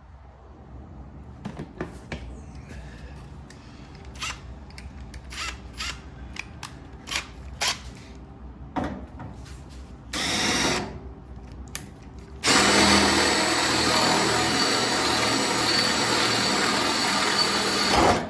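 Power drill boring out a spot weld in the steel front wing panel of a car. It gives a short burst about ten seconds in, then runs steadily for about six seconds and cuts off abruptly. Scattered clicks and knocks come before it.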